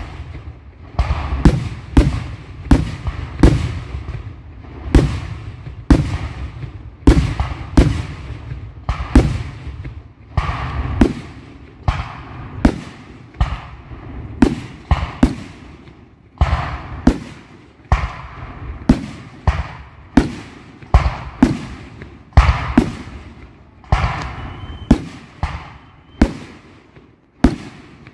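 3-inch aerial firework shells launching and bursting in rapid succession, a sharp bang about every half second to second, each trailing off in an echo.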